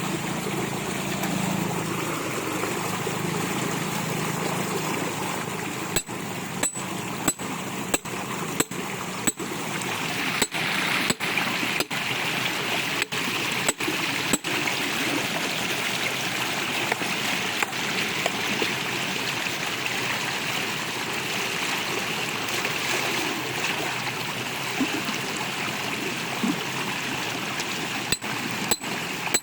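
Steady rushing of running water, growing brighter in tone about ten seconds in and broken by many brief dropouts.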